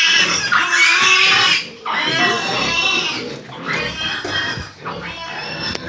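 Pigs squealing in long, high-pitched calls, broken by a few short pauses.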